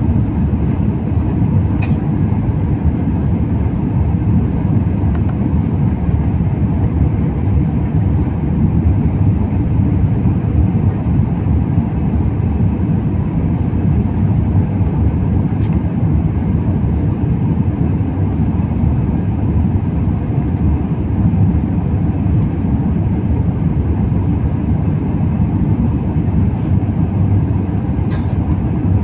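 Airliner cabin noise in flight: a steady low rumble of engines and rushing air, unchanging throughout.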